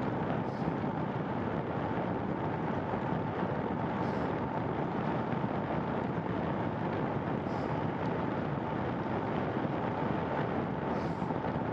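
Steady rushing wind and road noise from riding a bicycle, with a faint high tick about every three and a half seconds.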